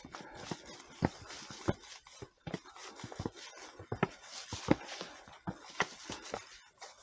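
Footsteps on a hard trail surface, a sharp step about one and a half times a second, with rustling between the steps.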